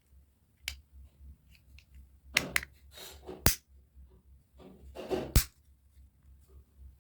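Sharp clicks and short rustling knocks at irregular times, the sound of an old wall clock's movement and parts being handled by hand. The loudest clicks come about two and a half, three and a half and five and a half seconds in.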